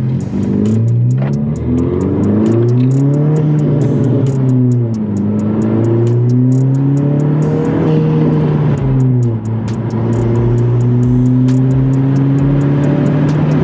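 Honda Civic Si's 1.5-litre turbocharged four-cylinder accelerating through the gears, heard at the intake: the engine note climbs under load, drops back at an upshift about five seconds in and again about nine seconds in, then pulls more steadily. Intake and turbo noise through the PRL Cobra cold air intake is prominent because the microphone sits right beside the intake filter.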